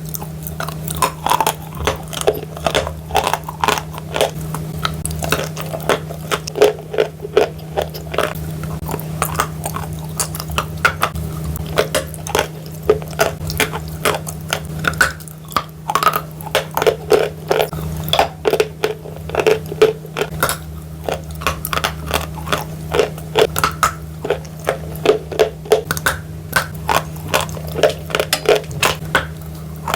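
Close-miked biting and chewing of chalk coated in clay paste: a steady stream of sharp, irregular crunches. A steady low hum lies underneath.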